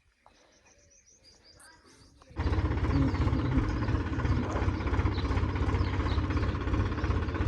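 Birds chirping faintly against a quiet background, then about two and a half seconds in a tractor's diesel engine comes in suddenly and runs steadily and loudly, with the birds still faintly audible over it.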